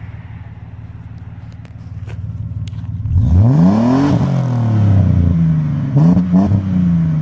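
1998 Ford EL Falcon engine idling through a newly fitted cat-back performance exhaust, then revved about three seconds in, its pitch rising and falling back. It holds a raised note and is blipped twice near six seconds before settling toward idle.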